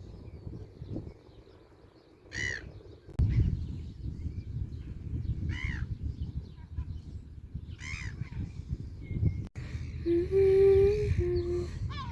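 Seagulls calling: three separate harsh calls a few seconds apart, each rising then falling, and another short call near the end. Wind rumbles on the microphone underneath. Near the end a steady low hum-like tone holds for about a second and is the loudest sound.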